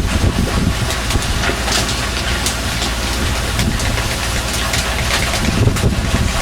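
Fishing boat's engine running steadily with a constant low hum, with scattered splashes or knocks over it.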